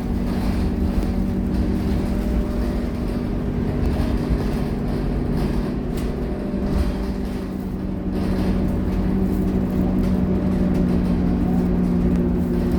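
Scania K230UB bus diesel engine running at a steady, even note over low rumble and road noise, heard from on board, a little louder in the last few seconds.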